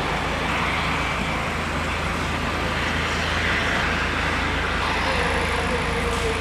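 Steady, loud engine running noise with a constant low hum, and a faint wavering tone near the end.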